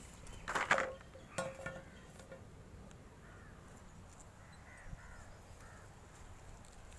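A crow cawing twice, about half a second and a second and a half in, with a few fainter calls later.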